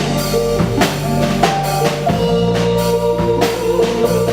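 Live band playing an instrumental stretch between sung lines: drum kit beating steadily with bass drum and snare hits, under bass and a long held melody note.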